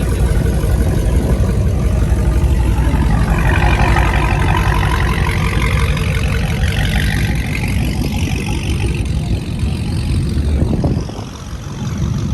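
Car engine running close by with a heavy low rumble. A higher whine rises and then falls between about three and nine seconds in.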